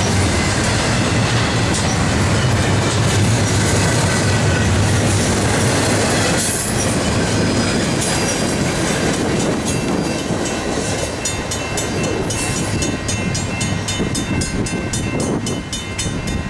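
Double-stack intermodal freight cars rolling past close by, wheels clattering and rumbling over the rails, the sound easing as the end of the train moves away. In the second half a grade-crossing bell rings with rapid, even strokes.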